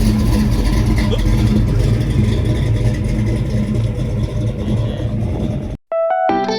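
A car engine running steadily at close range, cut off suddenly near the end by electric guitar music.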